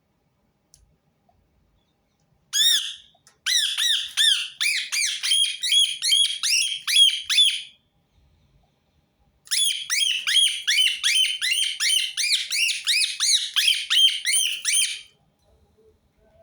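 Rose-ringed parakeet giving long runs of rapid, shrill, repeated squawks, about four a second. There are two bouts of about five seconds each, with a short pause between them.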